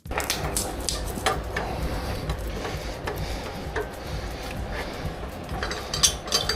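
Scattered clicks and knocks of cordless power-tool battery packs being handled and seated on their chargers, over a steady low rumble.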